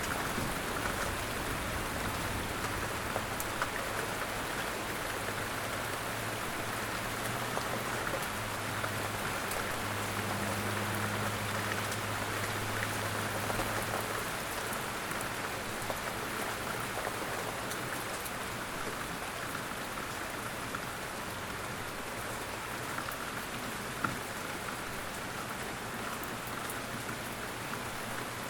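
Steady light rain falling in a forest, with scattered drops pattering on surfaces and a faint low hum through the first half.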